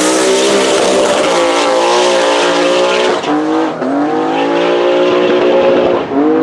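Drag car's turbocharged 3.1-litre BMW M50 straight-six, swapped into an Audi S2, pulling hard at full throttle down the strip. The pitch climbs steadily through each gear, with sharp drops at upshifts about three seconds in, again just under a second later, and near the end.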